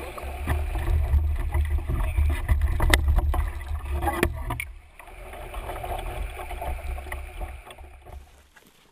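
Canoe being paddled, with water and paddle noise, a loud low rumble of wind on the microphone, and two sharp knocks about three and four seconds in. The sound falls away to a much quieter level near the end.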